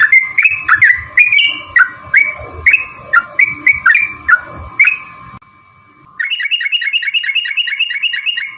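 Yellow-vented bulbul (trucukan) song used as a lure recording: loud, repeated bubbly chirping phrases, about three a second, that stop about five seconds in. After a short pause comes a faster run of rapid chirps. A steady thin whine sounds underneath.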